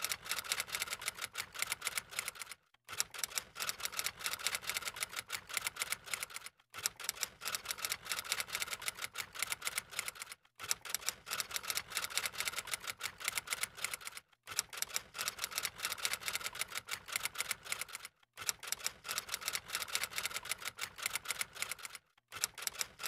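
Rapid, dense clicking in stretches of about four seconds, each broken off by a brief silent gap, then stopping abruptly.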